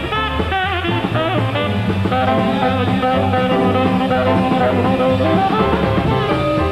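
Swing jazz band playing an instrumental passage, melody lines over bass and drum kit.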